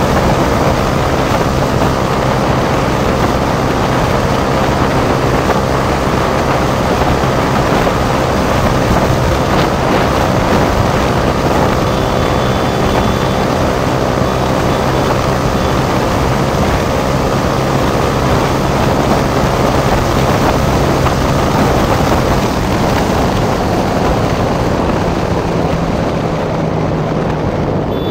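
Motorcycle engine running steadily at speed under heavy wind rush, its engine note easing off near the end.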